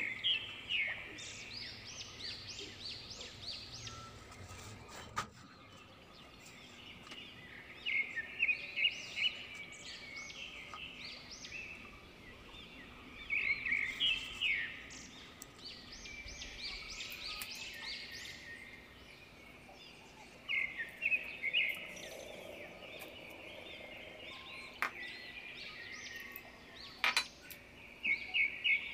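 Small birds chirping in bouts of quick, repeated high notes every few seconds, over a faint steady background hum, with an occasional sharp click.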